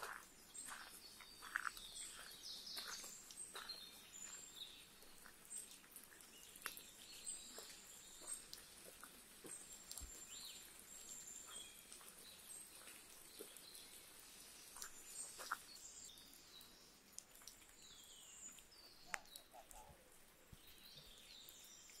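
Faint woodland birdsong: several small birds chirping and calling on and off, high and brief, over quiet background noise, with a few soft taps now and then.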